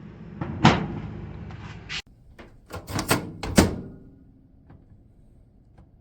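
Microwave oven door handled: several clicks and knocks of the latch and door, the loudest a cluster about three seconds in, over a low steady hum.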